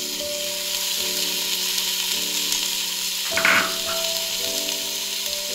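Chopped vegetables frying in hot ghee in a pan, a steady sizzle, with soft background music of held notes. A brief louder burst comes about three and a half seconds in.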